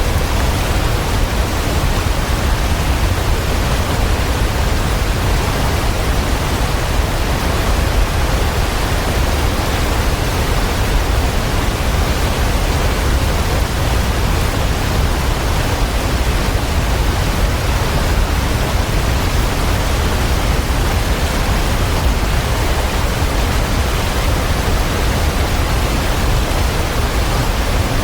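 Waterfall, a steady, even rush of falling water with a deep low rumble.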